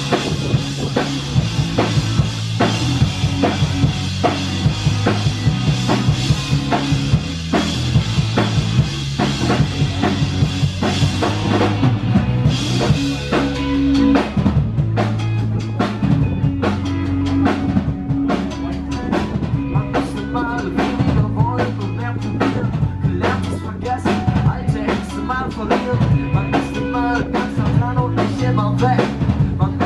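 Live band playing loud, drum-led music without singing: a drum kit beating a steady rhythm over bass lines. The high cymbal wash drops away about twelve seconds in.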